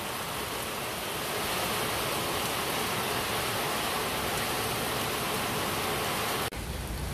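Heavy tropical rain pouring down as a steady, even hiss, heard from inside a minibus. The hiss breaks off abruptly about six and a half seconds in and gives way to a lower, rumblier rain noise.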